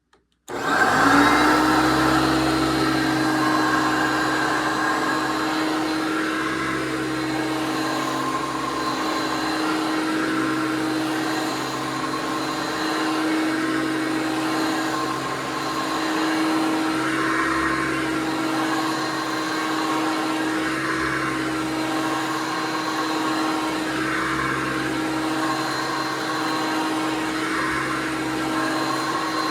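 1993 Hoover PowerMax upright vacuum cleaner switching on about half a second in, its motor spinning up in a brief rising whine and then running loudly at a steady pitch.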